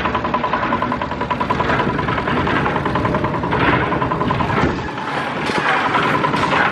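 A small engine running steadily with a fast, even chatter, typical of construction machinery.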